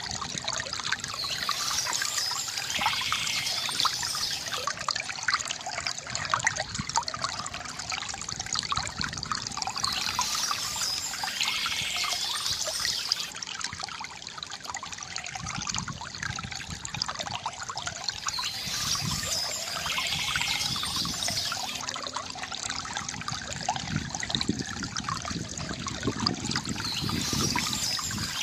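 Shallow stream trickling and splashing steadily over stones, with a brighter, higher burst of sound coming back about every nine seconds.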